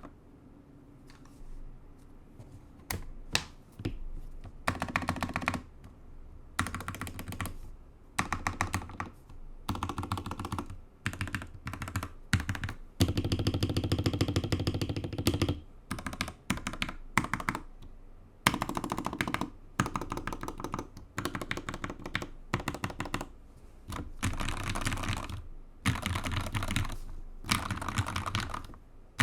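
Typing on a custom Gamakay LK67 mechanical keyboard with lubed Gateron Ink Black V2 linear switches on an aluminum plate, under BOW keycaps: a thocky keyboard sound. Fast keystrokes come in short runs with brief pauses, and one longer unbroken run sits about halfway through.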